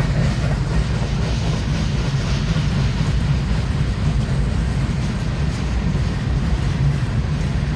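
Long freight train rolling past close by: a loud, steady rumble of wheels and cars on the rails.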